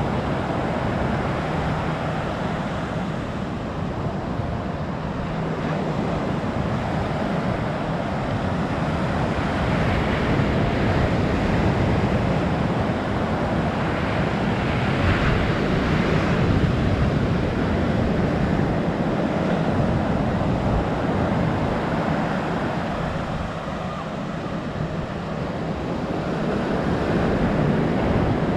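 Ocean surf washing onto a beach, a steady rushing noise that swells louder and ebbs as the waves come in, with wind buffeting the microphone.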